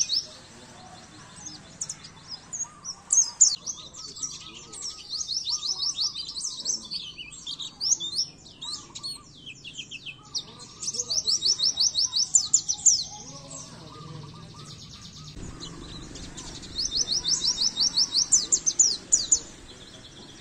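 White-eye (pleci) singing in bursts of two to three seconds, each a fast run of high, sweeping chirps, with short pauses between. This is a master song recording of the kind played to train caged songbirds.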